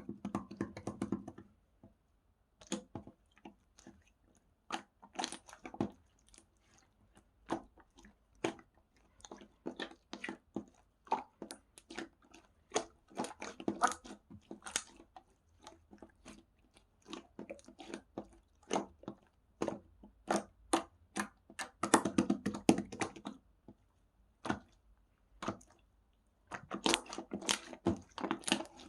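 Strawberry slime being squished and pressed by hand, making rapid sticky clicks and crackling pops in irregular clusters with brief pauses between them.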